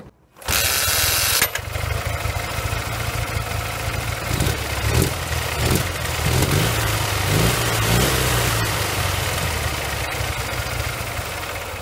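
Ural motorcycle flat-twin engine, built from worn scrap parts, running just after it has started. There is a loud noisy burst in the first second or so, and the throttle is blipped several times in the middle so the revs rise and fall. It runs without knocking or rattling, although gas is leaking from under the spark plug of the worn left cylinder.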